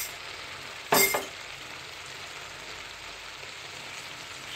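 Pasta and tomato-onion masala frying in a pan with a steady sizzle, broken by a single sharp clink about a second in.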